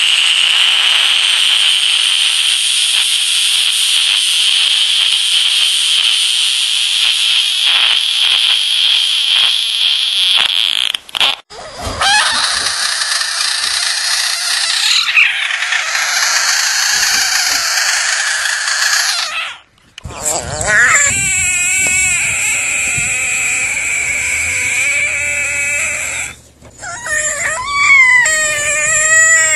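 Frogs giving distress screams with their mouths held open: four long, continuous high-pitched screams one after another with short breaks between them, the first from a horned frog. The later screams waver up and down in pitch.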